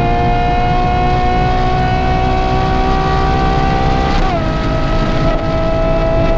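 Ferrari Purosangue's V12 through a Novitec race exhaust, accelerating under load with its pitch climbing slowly. About four seconds in the pitch drops sharply as the gearbox shifts up, and it then starts to climb again.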